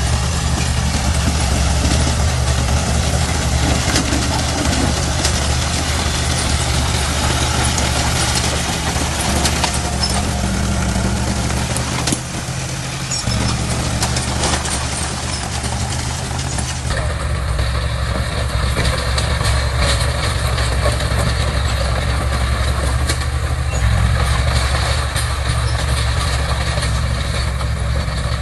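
Heavy-equipment diesel engine running steadily with a low hum, the sound dipping and changing briefly about twelve seconds in and again shifting a few seconds later.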